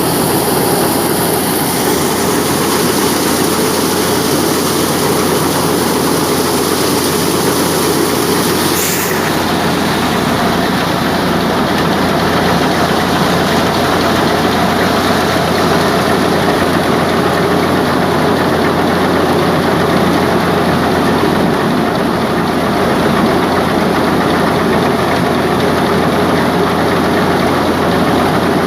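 Tractor-driven wheat thresher running steadily: the tractor engine's low drone under the thresher's dense, continuous mechanical clatter as it threshes the crop. The highest hiss eases about nine seconds in.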